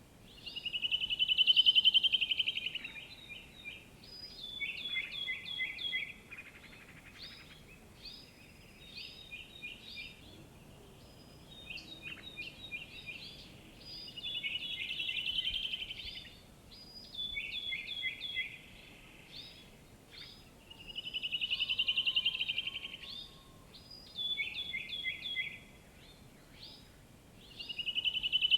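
Songbirds singing. A loud, rapid trilled phrase of about two seconds comes back roughly every seven seconds, and groups of three or four short, quick, falling chirps fill the gaps between.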